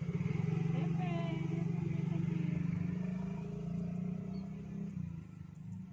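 A motor engine running with a steady low drone that weakens after about five seconds.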